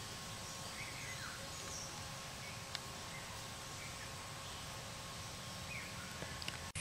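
Quiet outdoor background with a steady hiss and a few faint, short, falling bird chirps. Near the end the sound drops out abruptly and changes.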